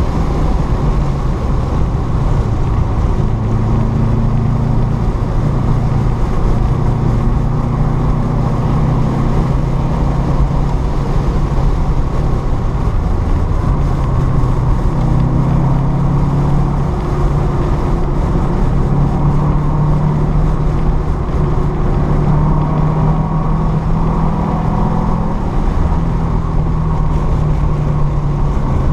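Car engine and road noise heard from inside the cabin at track speed. The engine note rises and falls with the revs as the car slows for the corners and then accelerates again.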